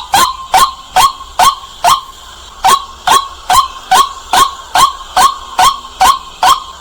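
White-breasted waterhen giving its loud, repeated 'kwak' call: short, sharp notes about two to three a second, with a brief pause about two seconds in.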